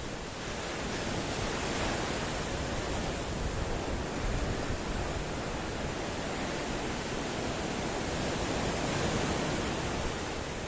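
Ocean waves washing onto the shore: a steady rush of surf that swells a little about two seconds in and again near the end.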